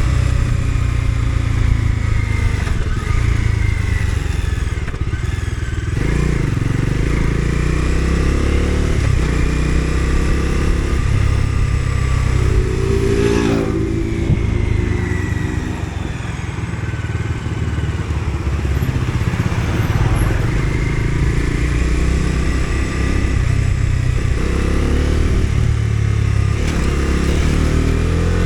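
Bajaj Dominar 250's single-cylinder engine and exhaust while riding, the pitch rising and falling again and again as the bike accelerates, changes gear and slows.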